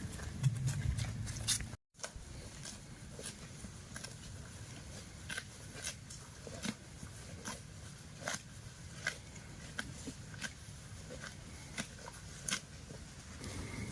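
Cow grazing close by: irregular crisp crunches and tearing ticks of grass being bitten off and chewed, about one or two a second, over a low rumble.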